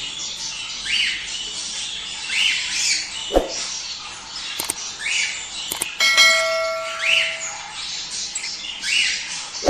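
A group of budgerigars chattering in repeated short, rising chirps and squawks. About six seconds in a small bell rings once, its tone dying away over a second or so.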